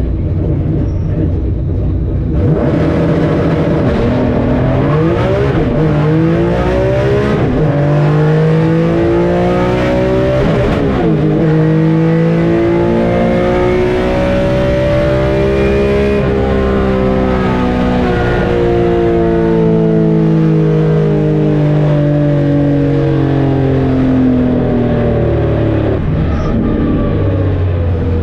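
Mk2 Volkswagen's 3.6 VR6 running at full throttle down the drag strip: a low rumble, then a hard launch about two and a half seconds in, with the pitch of the drivetrain sound climbing steadily through the run and sliding back down over the last ten seconds as the car slows.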